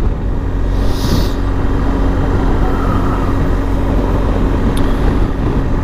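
BMW GS motorcycle riding at a steady, easy speed: an even engine hum under constant road and wind noise, with a brief hiss about a second in.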